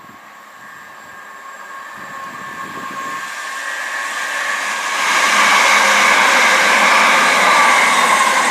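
Southern Class 377 Electrostar electric multiple unit approaching and passing at speed: a rush of wheel and air noise that swells over about five seconds, then stays loud as the carriages go by, with a whine that dips slightly in pitch near the end.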